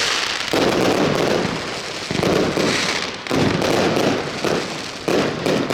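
Rubro Crash Box firework battery firing: a run of about six loud shots roughly a second apart, each trailing off in a rush of crackling noise.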